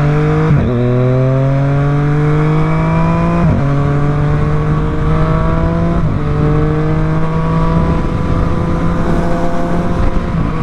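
Triumph three-cylinder motorcycle engine accelerating up through the gears, its pitch rising and dropping at each of three upshifts about half a second, three and a half seconds and six seconds in, then settling to a nearly steady cruise, with wind rush underneath.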